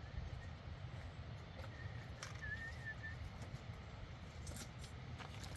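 Faint steady low rumble of outdoor background, with a thin, slightly wavering high whistle lasting about a second and a half in the middle and a few faint clicks.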